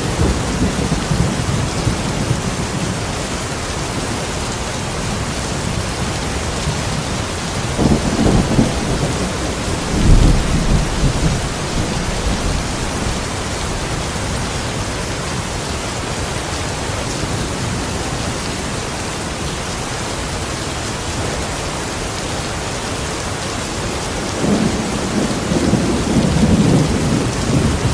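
Steady rain falling outside a window, with low rumbles of thunder: two about a third of the way in, the second the loudest, and a longer one near the end.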